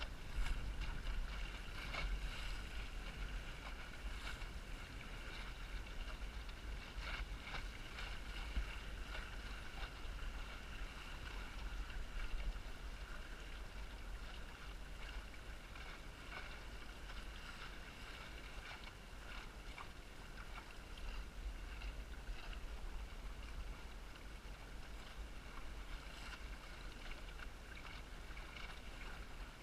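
Small sailboat under way in strong wind: wind buffets the microphone in a steady low rumble, and water splashes and slaps against the hull, with scattered knocks, busiest in the first half.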